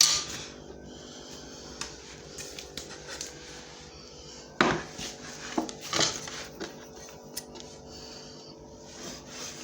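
Kitchen pans and utensils clattering: a few sharp knocks and clinks, the loudest at the start and about four and a half and six seconds in, with smaller clicks between them over a faint steady hum.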